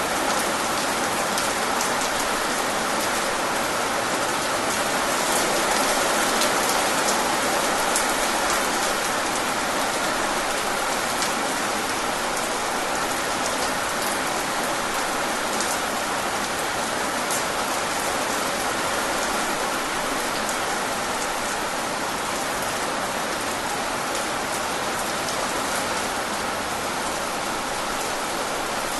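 Steady rain falling, a continuous even hiss with individual drops pattering on a surface.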